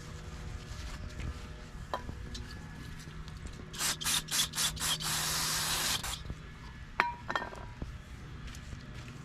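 Pressurised spray hissing on the transmission's magnetic drain bolt to wash off the metal shavings stuck to it: five short squirts, then one longer spray of about a second. A couple of light clicks follow.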